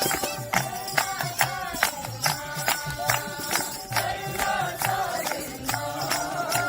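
Group singing a devotional bhajan to a steady beat, with tambourine-like jingling hits about twice a second.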